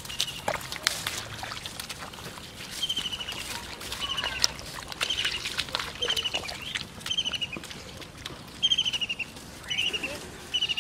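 A bird calling over and over in short, rapid chattering phrases, coming about once a second after the first few seconds, with rustling and crackling of footsteps through cut rice stubble.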